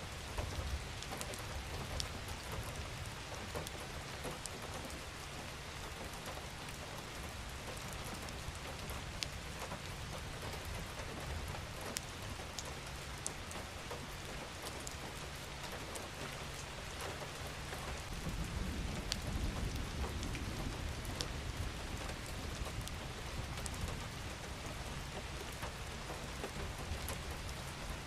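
Steady rain falling on a surface: an even hiss with sharp single drop ticks scattered through it. A low rumble swells briefly about two-thirds of the way in.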